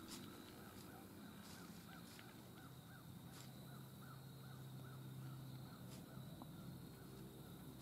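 Faint outdoor quiet with a distant bird calling in a quick series of short notes, about three a second, for a few seconds, and a few faint clicks.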